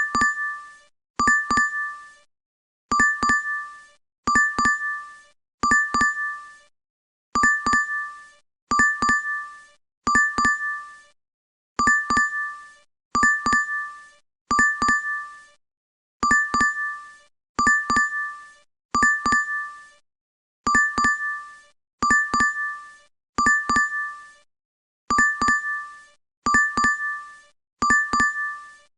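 DoorDash app order notification chime, a quick double ding on two bright tones, repeating over and over about every second and a half, in groups of three with a short pause between groups.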